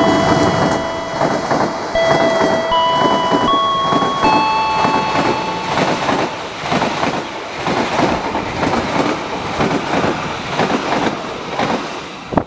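Passenger train coaches rushing past at speed close by, their wheels clattering over the rail joints in a quick, busy rhythm. Over the first six seconds an electronic level-crossing warning chime plays a repeating run of ringing notes, then stops.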